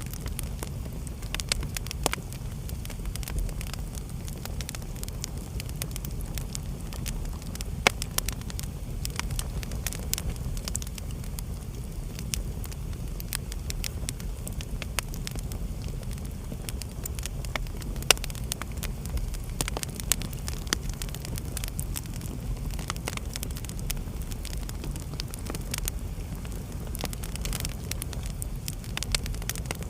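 Wood fire burning in a fireplace: a steady low rumble of flames with irregular crackles and pops, a couple of sharper pops standing out about 8 and 18 seconds in.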